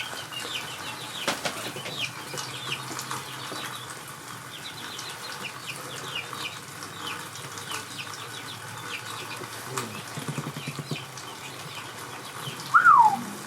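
Birds chirping repeatedly with short, quick, falling notes, with one louder falling call near the end.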